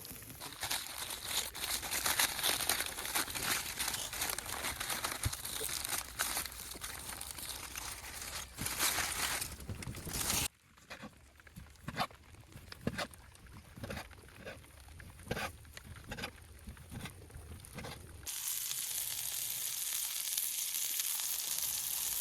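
Meatballs and sucuk sausage sizzling and crackling on a hot stone slab, with many sharp pops. About ten seconds in the sound cuts abruptly to a quieter stretch of scattered pops, and a steady hiss returns near the end.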